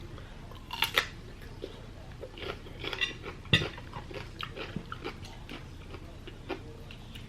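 Close-up eating sounds: utensils clicking against a plate and chewing, with sharper clinks about a second in and again about three and a half seconds in.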